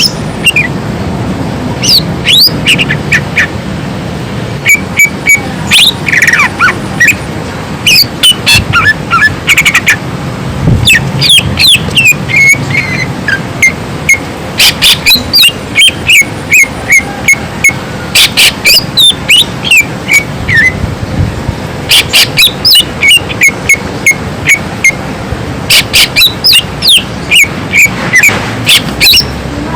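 Cucak ijo (green leafbird) singing a loud, fast, varied song: sharp whistled notes that slide up and down, delivered in quick volleys with short breaks between them.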